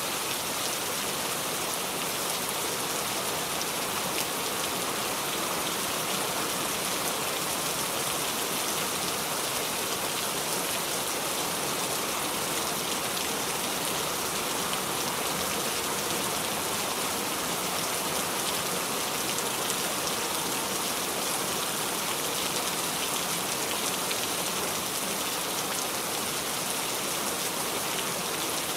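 Steady rain falling, an even hiss of many drops on surfaces that does not change in strength.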